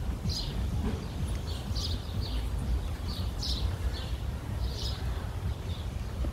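Small birds chirping: short, high, falling chirps repeated about twice a second, over a steady low rumble.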